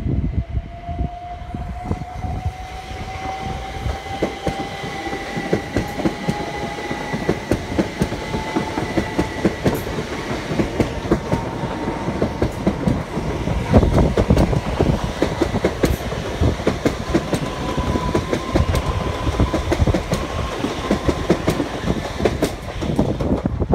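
Southeastern electric multiple unit passing close by: wheels clicking and rumbling over the rail joints, with an electric whine that rises slowly in pitch as it goes.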